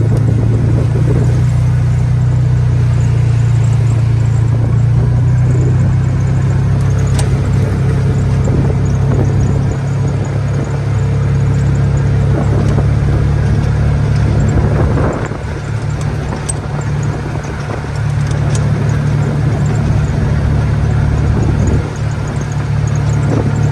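A vehicle driving, with a steady low engine and road drone and brief dips about fifteen seconds in and again near the end.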